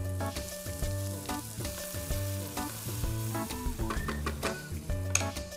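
Chopped onion and sliced mushrooms sizzling as they start to fry in hot olive oil and butter in a wide pan, stirred with a wooden spoon.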